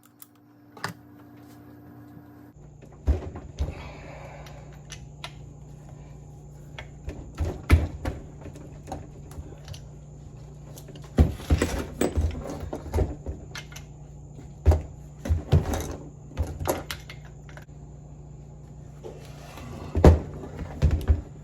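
Metal parts of a 1978 Ford power steering box being handled and set down during a rebuild: irregular knocks, clinks and clatter, with a few louder knocks.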